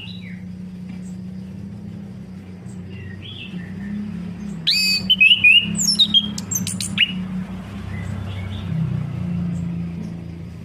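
Orange-headed thrush singing: a loud burst of quick, varied whistles and trills about five seconds in, with fainter chirps before and after. A steady low hum runs underneath.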